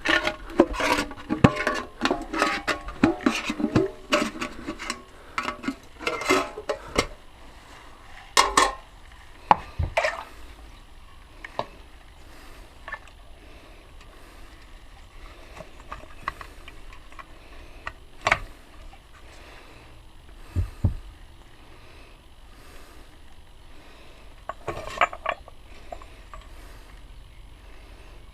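Small metal scooter parts clinking and knocking as they are handled and set into a container to soak: a busy run of clinks for the first several seconds, then only an occasional knock.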